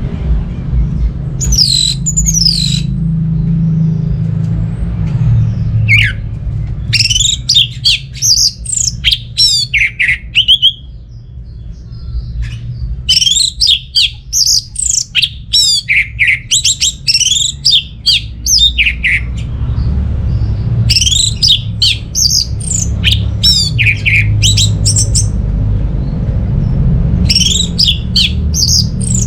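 Orange-headed thrush (anis merah) singing in bouts of fast, sweeping high whistled phrases, separated by pauses of a second or more, over a steady low rumble.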